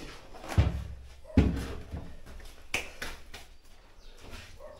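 A few sharp knocks and clunks of something being handled, the loudest about a second and a half in, with lighter clicks between them.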